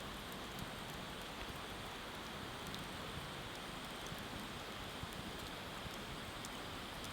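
Wood bonfire crackling, with scattered small sharp pops over a steady rushing hiss of the riverside water.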